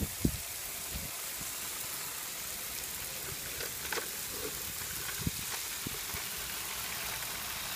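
Steady hiss of rain falling on wet paving stones, with a few dull knocks.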